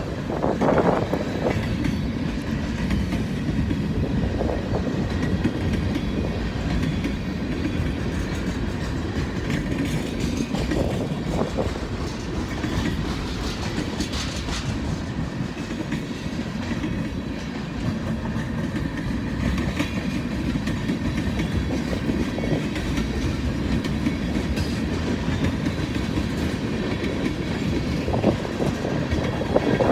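Freight train cars rolling past, a steady unbroken rumble of wheels on rail.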